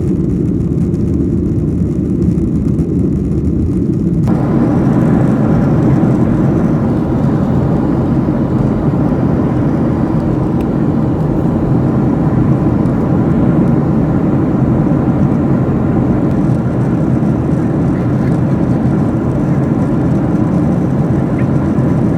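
Steady, loud airliner cabin noise: jet engine and airflow rumble heard from a window seat. About four seconds in, a fuller hiss suddenly joins the low rumble and holds steady.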